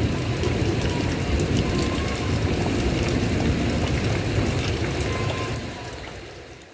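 Heavy rain falling on a tile roof: a dense patter of drops over a steady low rush, fading out near the end.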